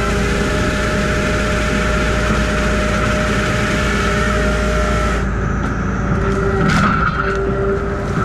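Grapple saw truck's engine running steadily under load, with a loud rushing hiss over it for the first five seconds and a short sharp burst about seven seconds in.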